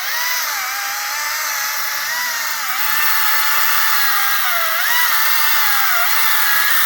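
Echo battery-powered electric chainsaw cutting wood: a steady motor whine that dips in pitch several times as the chain bites under load, then cuts off suddenly near the end.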